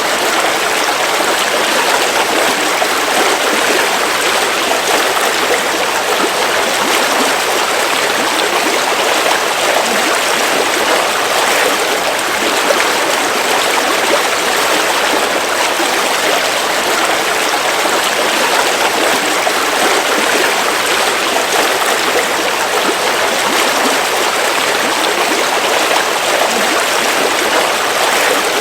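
River water flowing over rocks, a steady rushing and trickling with no let-up.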